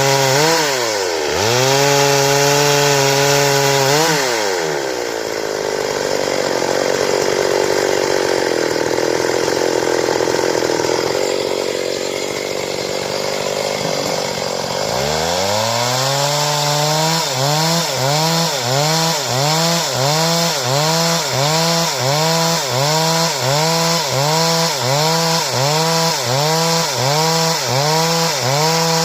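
Stihl chainsaw cutting a board, its two-stroke engine running at high revs. The engine is pulled down and labours for about ten seconds as the chain bites. It then climbs back up and surges in a quick, even rhythm, about one and a half times a second.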